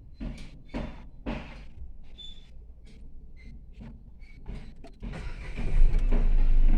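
Car engine starting about five seconds in, flaring briefly and then settling into a steady idle. Before it, scattered clicks and knocks.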